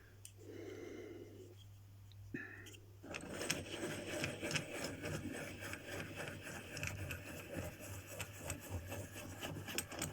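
Near quiet at first, then, from about three seconds in, steady scraping and rubbing with many small clicks: hand-working and handling of a 3D-printed plastic caster wheel and its fittings at a vise.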